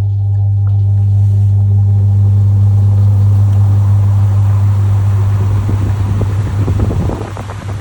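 Top-loading washing machine agitating its wash: the pulsator motor runs with a loud, steady hum, and about two thirds of the way in water and laundry start sloshing and splashing in the tub. The hum dips briefly near the end.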